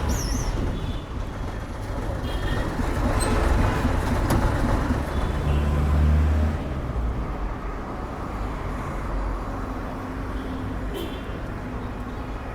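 Street traffic rumbling steadily as vehicles pass. A louder low engine hum swells about five and a half seconds in, then drops away after a second.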